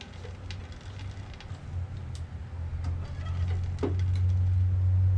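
Scattered light clicks and taps of metal tooling being handled at a milling machine, over a low steady hum. The hum grows louder about two seconds in and is strongest from about four seconds, with a brief rising squeak just before.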